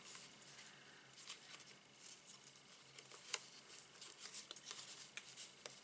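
Near silence, with a few faint light ticks and rustles of hands handling thread and card.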